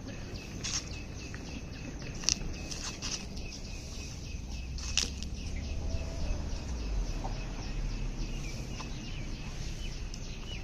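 Birds calling over a steady outdoor background, with short high chirps throughout, a couple of brief lower notes past the middle, and scattered sharp crackles.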